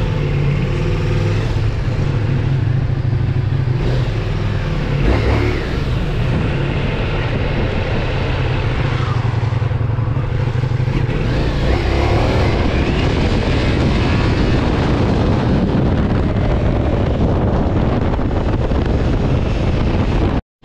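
Ducati Multistrada V4 S motorcycle's V4 engine running under way, heard from the rider's helmet. The revs change as it rides on, with a rise in pitch about twelve seconds in.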